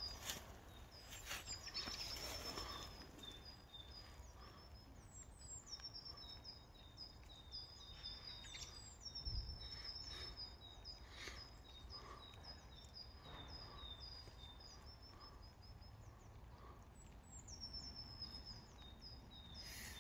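Small songbirds singing faintly, with many high, thin notes and short downward-sliding whistles repeating throughout, over quiet outdoor background noise.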